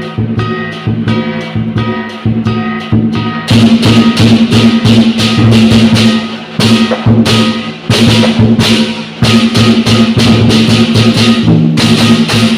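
Lion-dance performance music: a steady, even drum beat, with loud cymbal crashes joining in about three and a half seconds in and keeping the rhythm.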